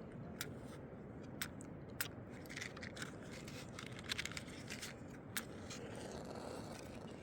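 Irregular sharp clicks and light scraping, most frequent in the middle, over a faint steady hiss.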